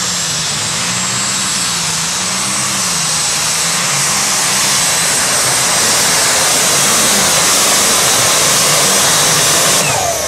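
Competition pulling tractor's engine at full power on a pull down the track: a loud, even roar with a high steady whine over it, falling away just before the end.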